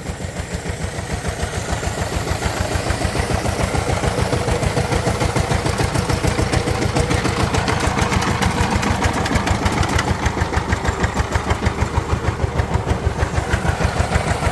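Power tiller's diesel engine running steadily with a fast, even chugging beat.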